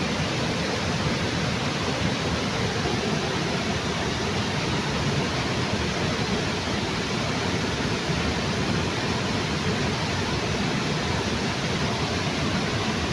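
Water from a small waterfall under a bridge, pouring and splashing in a steady, unchanging rush.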